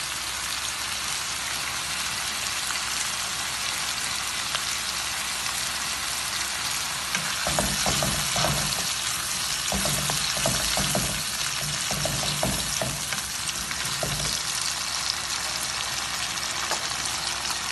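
Chicken pieces in a thick chilli-and-tomato sauce sizzling steadily in a non-stick wok. A wooden spatula scrapes and stirs through the pan from about seven seconds in until about fourteen.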